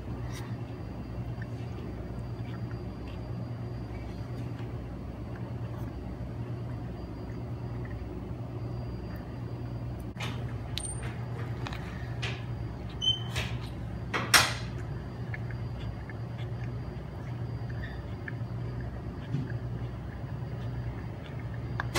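A steady low hum, with a few short clicks and rustles in the middle and the loudest one about fourteen seconds in.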